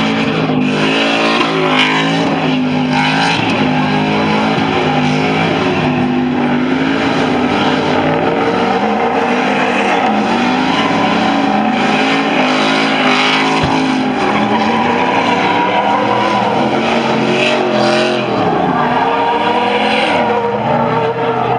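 Truck engine revving up and down repeatedly, with tires squealing.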